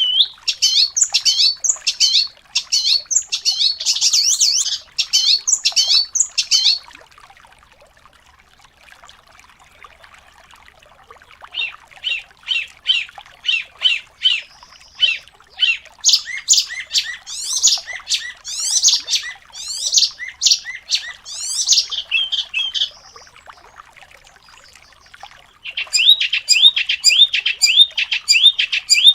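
Songbird singing in fast, closely packed phrases of high repeated chirps and trills, in three long bursts separated by short pauses.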